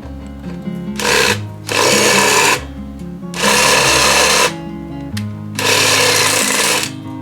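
A power tool run in four short bursts of about a second each, with background music playing underneath.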